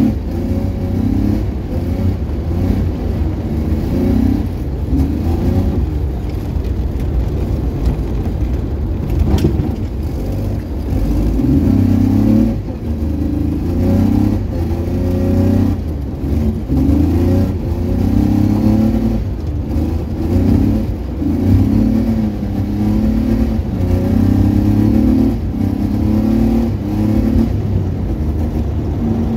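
Car engine revving hard on a snowy road, its pitch rising and dropping back again and again about every second or two as the driver works the throttle and gears. Heard from inside the cabin.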